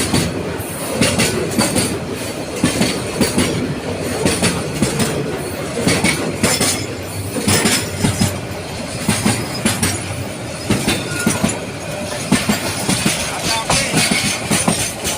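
Heavy container freight train rolling past at close range: a steady rumble with frequent irregular clanks and knocks as the wheels run over the rail joints.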